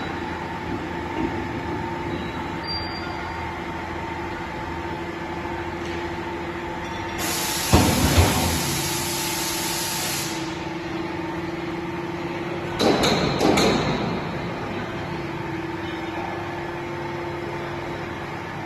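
An excavator running steadily, with a long burst of hissing and a couple of heavy knocks about seven to ten seconds in, and another few clanks around thirteen seconds.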